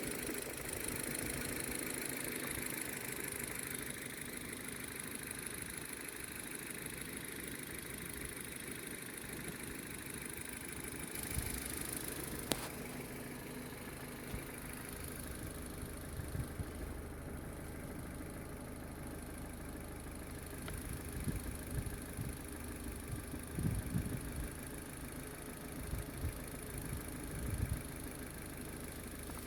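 Ford Focus II car engine idling steadily; a stronger low hum comes in about eleven seconds in, with scattered short knocks and thumps after it.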